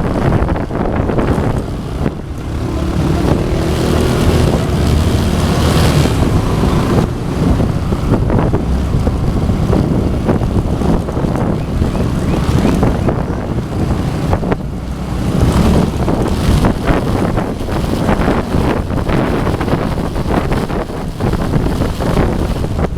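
Wind buffeting the microphone over the steady noise of motorcycles on the road.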